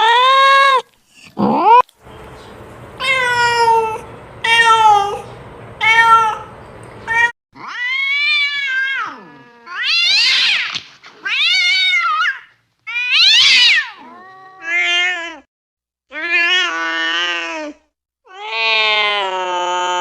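Domestic cats meowing over and over, about a dozen separate meows. Several rise and then fall in pitch, and some are long and drawn out, the longest near the end.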